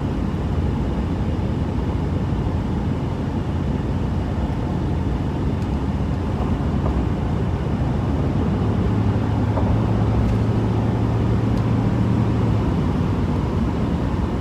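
Steady road and engine noise inside a moving car's cabin, with a low engine hum that grows a little stronger for a few seconds past the middle.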